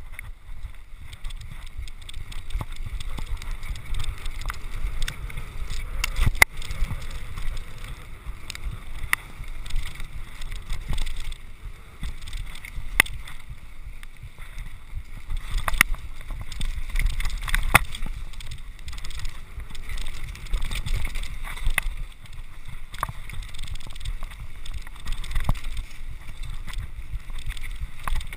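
Wind rumbling on a mountain-biking action camera's microphone while riding, with sharp knocks and rattles from the bike scattered through it.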